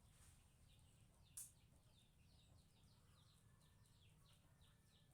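A faint bird chirping steadily in short falling notes, about three a second, with a single sharp click about a second and a half in.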